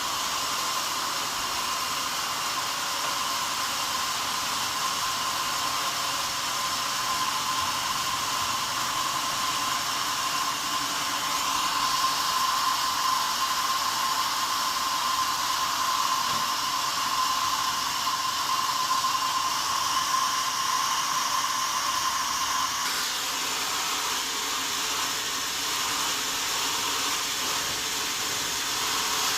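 Sawmill saw running steadily, a constant hiss with a high steady whine that drops away about 23 seconds in.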